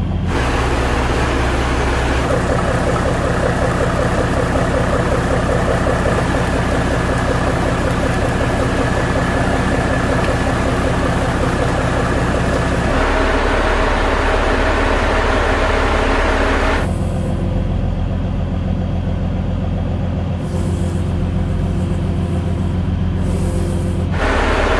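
A cargo boat's engine running loud and steady, its tone changing abruptly several times where the shots change.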